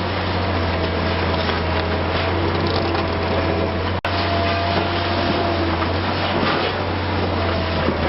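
Liebherr R 960 high-reach demolition excavator's diesel engine running steadily with a low drone. The sound drops out for an instant about four seconds in.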